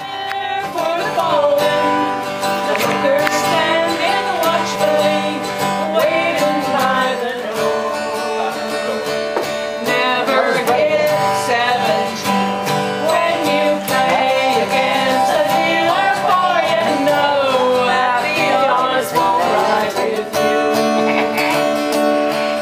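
A country-folk song: a voice singing over acoustic guitar.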